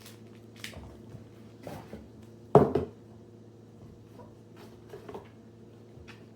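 Kittens scrambling and playing: scattered scuffles and light knocks, with one louder thump about two and a half seconds in, over a steady low hum.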